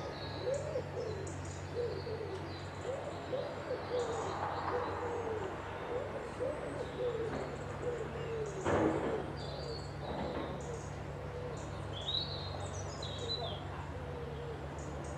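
A pigeon cooing: a run of low, soft, repeated notes for about ten seconds, with small birds chirping higher up. A steady low hum runs underneath, and a single sharp knock comes about nine seconds in.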